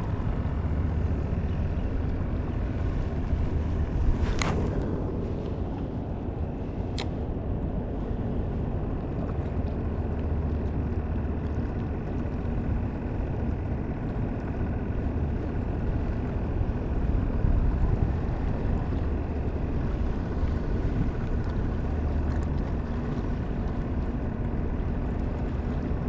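A boat motor running steadily under low rumble. There is a sharp knock about four seconds in and a brief click about seven seconds in.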